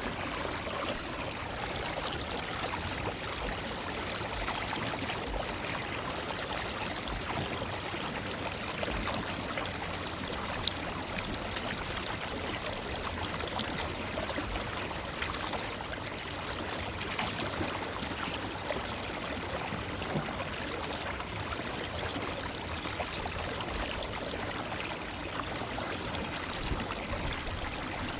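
Forest river flowing over rocks: a steady, even rush of water with small splashes and gurgles. A single faint click about ten seconds in.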